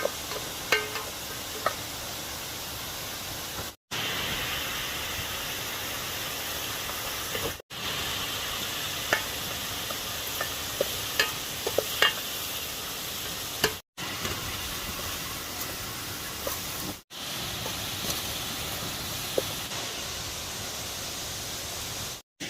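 Cooking: a spoon knocking and scraping in a pot in scattered sharp clicks over a steady hiss. The sound drops out briefly several times.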